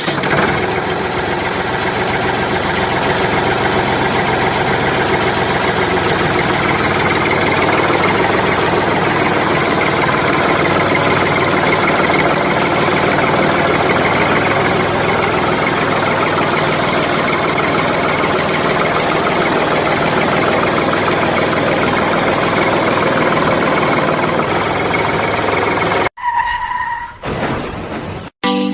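A steady engine-like running sound from a small machine, even and unbroken for most of the time. About 26 seconds in it cuts out briefly, and a short electronic tone sounds.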